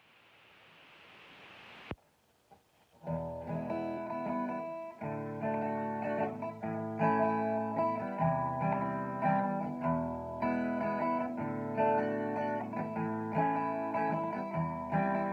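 Instrumental guitar intro to a song: chords ringing in a steady rhythm, starting about three seconds in. Before it a faint hiss swells up and cuts off with a click.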